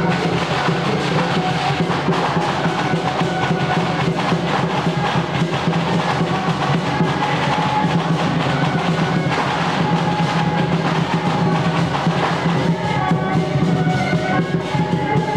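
Temple procession music: continuous drumming and percussion under dense, held melodic lines, playing steadily throughout.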